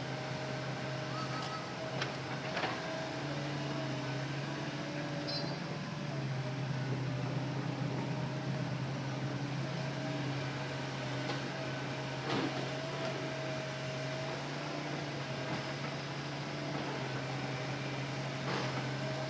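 Hitachi Zaxis excavator's diesel engine running steadily with a hydraulic whine, and a few sharp knocks scattered through it as the machine works.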